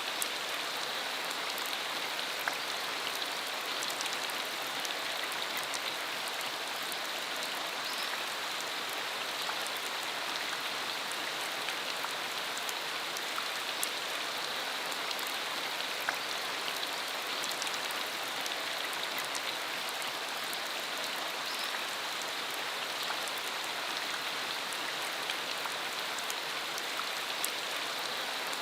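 Steady rain shower falling on a rural road, an even hiss with scattered sharp taps of individual drops.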